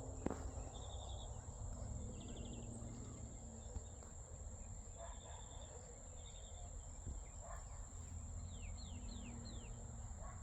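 Insects, crickets among them, making a steady high-pitched drone, with short pulsed chirps coming every second or two. A few quick falling chirps come near the end.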